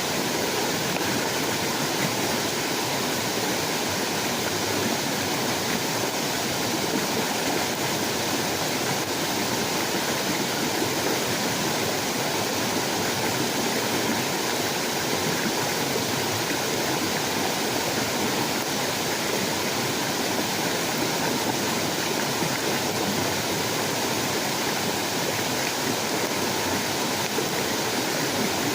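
Steady, even rushing of water, unbroken, with no distinct drops, splashes or strokes.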